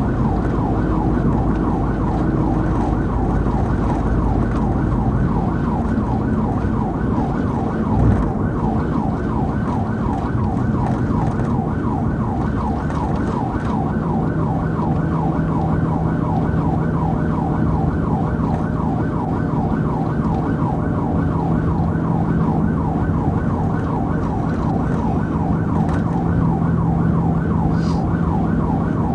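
Police cruiser siren sounding a rapid, repeating yelp, over steady engine and road noise from the car in pursuit. A steady low hum joins about halfway through.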